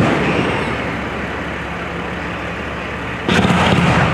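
Fireworks exploding overhead: the tail of one burst fades during the first second, and a second loud burst goes off about three seconds in, over a steady low background hum.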